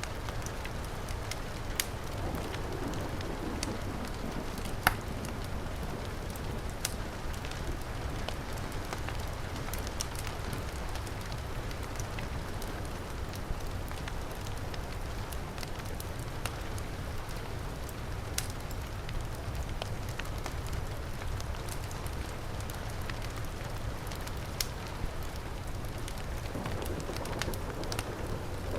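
Steady heavy rain hiss with a low rumble, mixed with the scattered crackles and pops of a wood fire; one louder pop about five seconds in.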